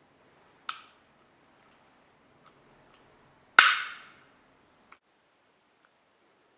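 Airsoft gas-blowback Glock 17 pistol firing: a sharp crack less than a second in, then a much louder shot with a short ringing tail about three and a half seconds in. Faint clicks of the pistol being handled fall between them.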